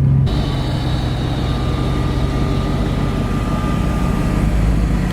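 Jon boat's outboard motor running steadily as the boat travels under way.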